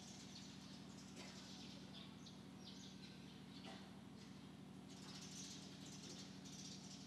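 Faint birds chirping in short, scattered calls over a steady low hum.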